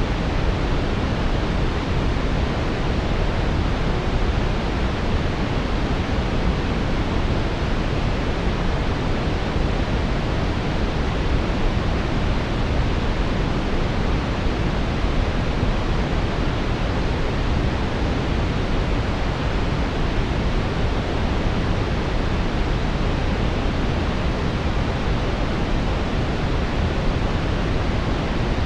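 Steady brown noise: a deep, even rushing hiss, heaviest in the low end, with no changes.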